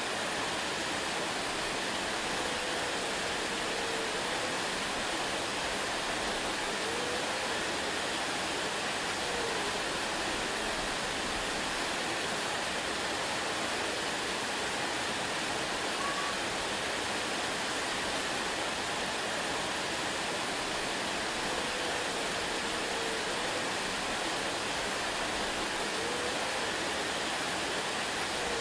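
Waterfall: a steady, unbroken rush of falling water, with a few faint short gliding tones over it.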